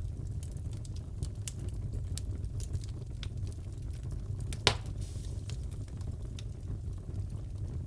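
Wood fire crackling in a fireplace: a steady low rumble with scattered small crackles, and one loud pop a little after the middle.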